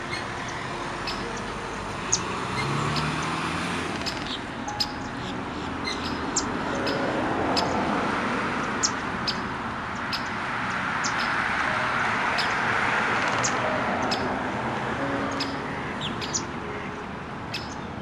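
Birds chirping: many short, high chirps scattered throughout, over a steady noisy background that swells and fades again around the middle.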